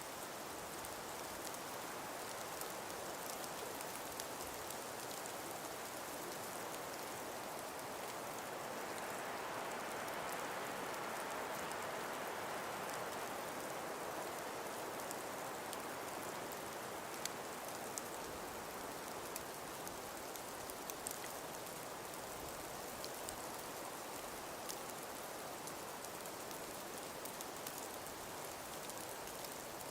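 Calm breeze blowing through frost- and ice-covered forest trees, a steady hiss that swells about a third of the way in and then eases, with scattered faint ticks.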